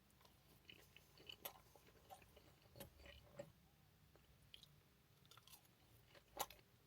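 A person chewing a mouthful of snack-pack chips and gyros meat close to the microphone: faint, irregular wet clicks and soft crunches, with one sharper click about six and a half seconds in.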